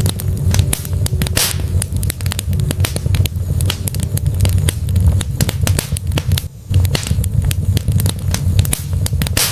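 Wood logs burning in a fireplace, crackling and popping in a dense, irregular stream over a low, steady rumble of the flames, with a short hiss about a second and a half in.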